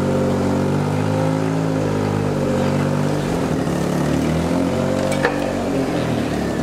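An engine running steadily at low speed, its pitch wavering a little, with a single sharp metallic clank about five seconds in.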